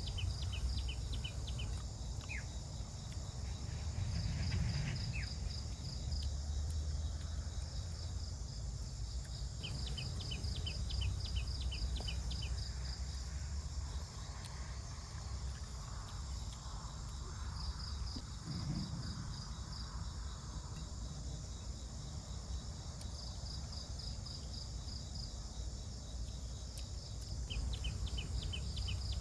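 Forest insects, crickets among them, chirping: a steady high drone with bursts of rapid chirps repeating every few seconds, over a low rumble.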